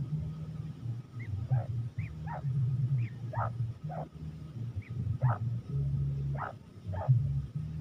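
A bird calling with short falling notes, about ten in a row, coming irregularly once or twice a second, over a low rumble.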